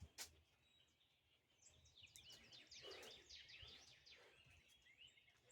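Faint birdsong: a fast series of short, high, downward-sliding chirps running for about three seconds in the middle, with one sharp click just after the start.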